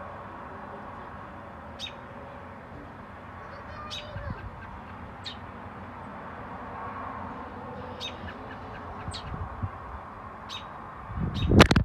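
Small bird chirping: about seven short, sharp, high calls spaced a second or two apart over a steady background rush, with a loud thump near the end.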